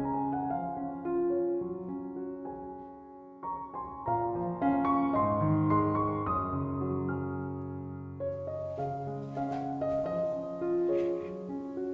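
Gentle solo piano music, slow sustained notes and chords. A faint hiss joins under it about two-thirds of the way through.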